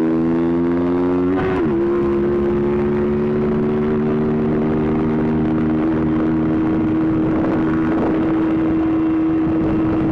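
Motorcycle engine running under way, its pitch rising slightly, then after a brief break about a second and a half in, running at a steady speed.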